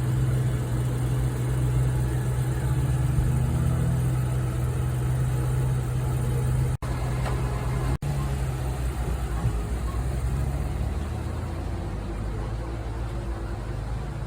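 1963 Chevrolet Corvette Sting Ray's 5.4-litre (327 cu in) small-block V8 idling steadily, a little quieter in the last few seconds.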